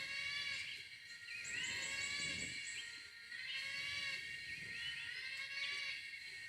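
A strange animal call from the forest, high and layered, that wavers and recurs every second or two. The caller is unidentified.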